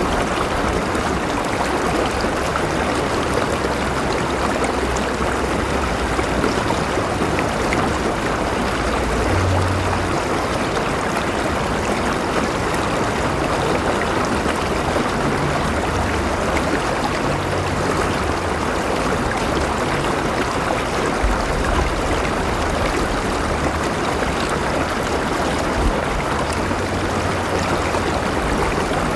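River water flowing steadily over rocks, a constant rushing and gurgling with a low rumble underneath.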